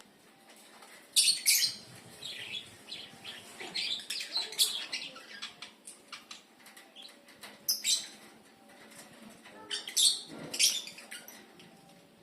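Lovebirds calling with short, shrill high-pitched chirps in scattered bursts, the loudest about a second in, near eight seconds and around ten seconds.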